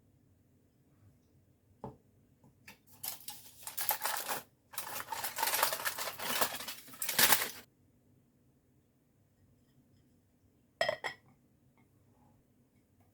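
Kitchen utensils working against dishware: a knock, then several seconds of scraping and clattering, and a single clink near the end.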